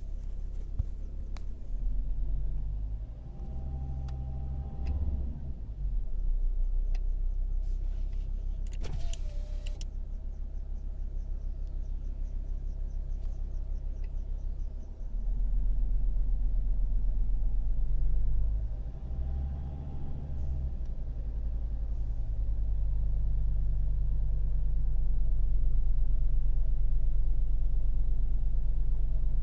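2001 Alfa Romeo 156's 2.4 JTD five-cylinder diesel running, its speed changing a few times, with a bird-like chirping that comes and goes with engine speed. The owner suspects the auxiliary belt drive, where the crankshaft pulley's rubber damper is worn. There is a brief clatter of sharp clicks about nine seconds in.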